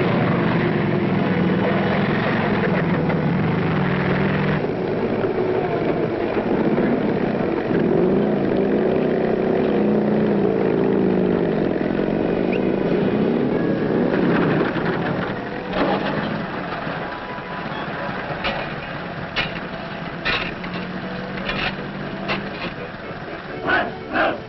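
Heavy motor vehicle engines running with a steady drone, easing off after about fifteen seconds, on an old film soundtrack with a narrow, dull top end. A run of sharp rhythmic pulses, about two a second, starts near the end.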